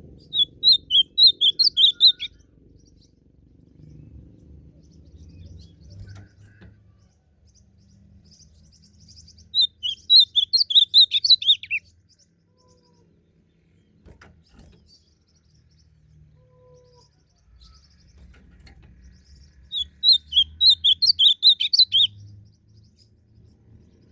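Ultramarine grosbeak (azulão) singing: three loud, quick warbled song phrases of about two seconds each, roughly ten seconds apart, over a faint low rumble.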